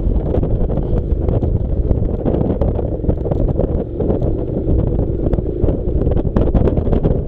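Honda NC700's parallel-twin engine running as the motorcycle rides off-road, mixed with heavy wind buffeting on the microphone and frequent small knocks and rattles.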